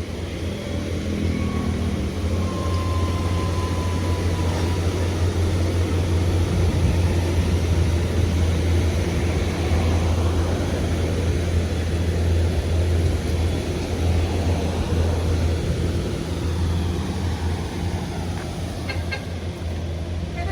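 Diesel truck engines running as heavy trucks pass close by, a deep steady rumble that builds over the first couple of seconds and eases off near the end.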